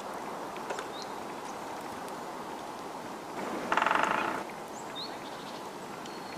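A woodpecker drumming: one short, very fast roll of strikes on wood lasting under a second, a little past halfway, over a steady forest hiss with a few faint high chirps from small birds.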